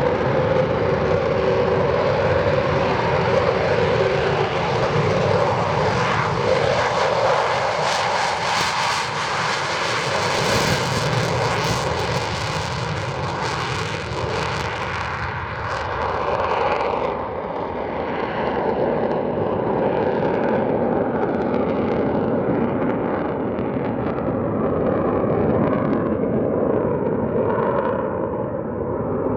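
Douglas A-4 Skyhawk jet engine at takeoff power, a steady roar with a whine early on. The hiss is strongest about ten seconds in, then the sound turns duller while staying loud.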